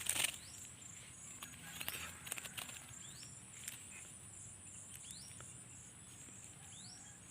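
Short, thin, upward-sweeping bird calls repeated every second or two over a steady high drone of insects, with a few sharp clicks and rustles in the first second or so.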